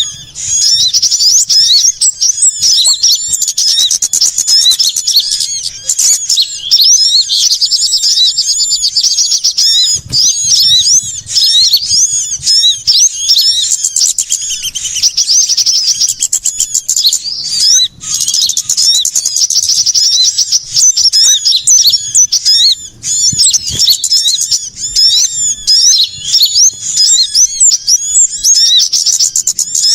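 Bird-luring call recording of many small birds chattering at once: a loud, unbroken tangle of quick, high chirps and trills with no pauses between calls. It is the agitated 'ribut' chorus used to draw small birds in for trapping.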